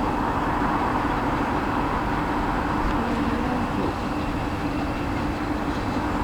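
Train running steadily on the rails: a continuous rumble with a steady hum underneath.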